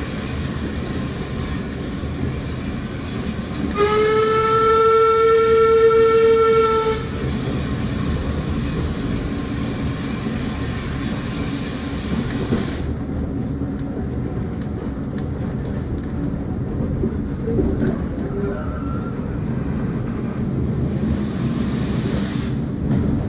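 A heritage train running, heard from inside a passenger carriage as a steady rumble of wheels on rail. About four seconds in, the locomotive sounds one long, loud, steady-pitched blast lasting about three seconds.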